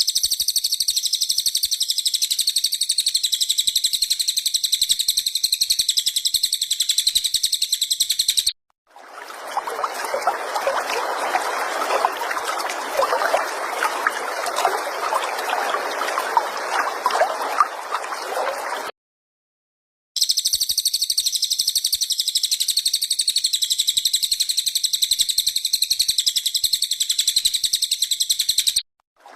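Cililin bird's high, rapid, pulsing trill held steadily for about eight seconds, then, after a brief silence, about ten seconds of dense trickling noise, then the same trill again after another short break. Looped birdsong of the kind played to competition songbirds for them to copy.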